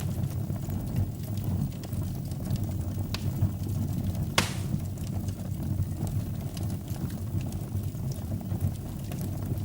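Wood fire in a fireplace crackling, with scattered small pops over a steady low rumble, and one sharp loud pop about four seconds in.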